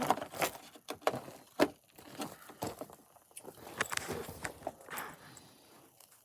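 Scattered, irregular clicks and knocks of metal tools and parts being handled, dying away in the last second.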